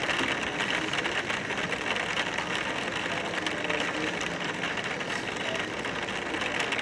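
Rain pattering steadily on a window pane: a dense, even run of fine drop hits with no let-up.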